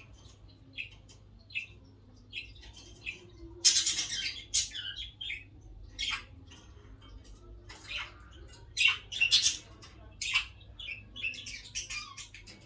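Two female budgerigars chirping and squawking in short, irregular calls. The loudest bursts of squawks come about four seconds in and again around nine seconds.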